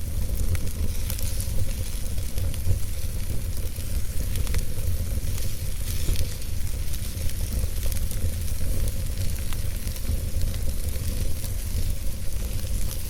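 Fire in a fireplace crackling steadily, with scattered small sharp pops over an even hiss and a low rumble.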